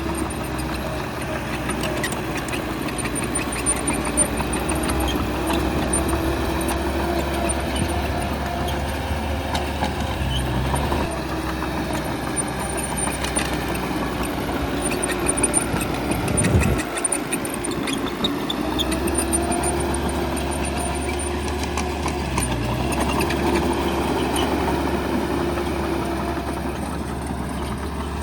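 Bulldozer's heavy diesel engine running under load, its pitch rising and falling several times as it works. A single louder knock comes about sixteen seconds in.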